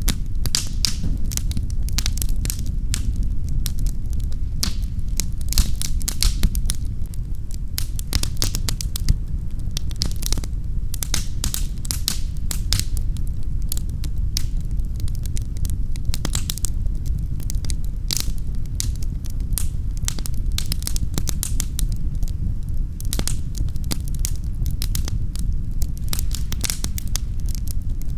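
Wood fire crackling in a fireplace: dense, irregular snaps and pops over a steady low rumble of the flames.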